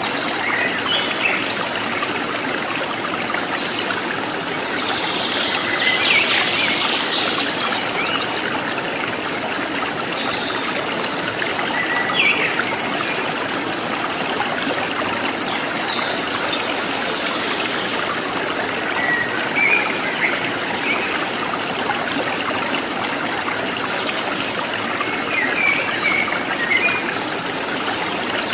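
A small forest stream trickling and babbling steadily, with brief chirps of wild birds heard a few times over it.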